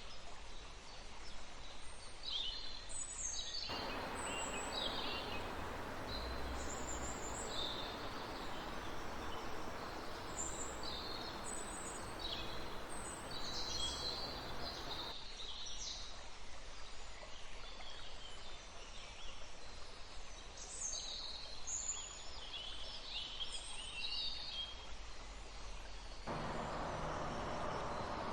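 Many small forest birds chirping and twittering in quick, overlapping calls, over the rush of a river or stream. The water noise cuts in suddenly about four seconds in, drops away around fifteen seconds, and returns just before the end.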